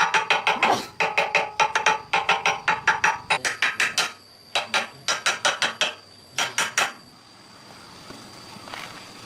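Hammer striking a metal part in quick runs of blows, several a second, each with a ringing metallic pitch; the hammering stops about seven seconds in.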